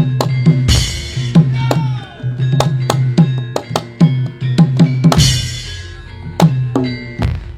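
Lively drum-led music for a Javanese lengger dance: quick drum strokes, some sliding down in pitch, over a steady low note, with a ringing crash about a second in and another about five seconds in.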